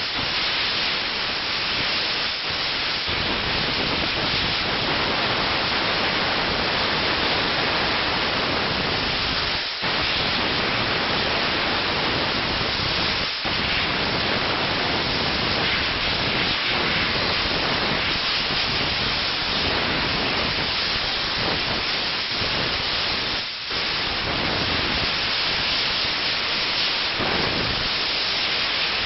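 Optima steam car wash machine's nozzle hissing steadily as it sprays steam, with a few short breaks where the flow is briefly cut.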